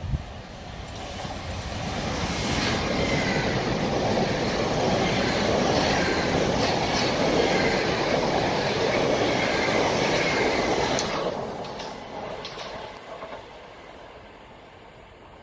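South Western Railway electric multiple unit passing the platform at speed. The rumble and clatter of its wheels build over a couple of seconds, hold loud with a faint whine that glides in pitch, then fade quickly about eleven seconds in.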